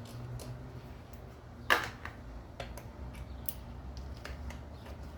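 Scattered metallic clicks and clinks from hand tools and bolts being worked on an engine, with one sharper clank about a second and a half in.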